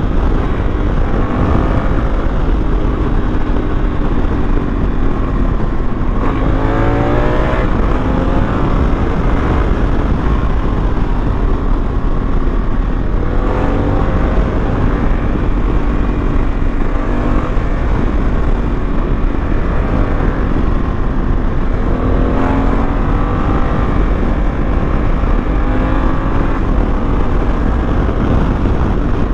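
Honda Africa Twin motorcycle engine running on the road, its pitch rising several times as it accelerates through the gears, under heavy wind rush on the microphone.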